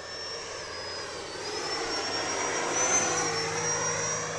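Electric ducted fans of an FMS Rafale RC jet whining in flight, growing louder to a peak about three seconds in, the whine rising a little in pitch, then easing off as it passes.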